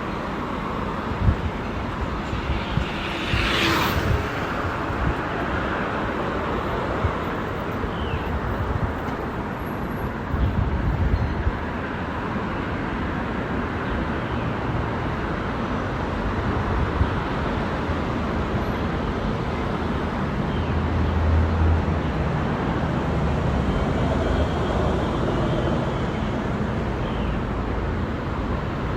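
Steady road and wind rumble of a slow bicycle ride, with motor traffic noise, and a brief bright hiss about four seconds in.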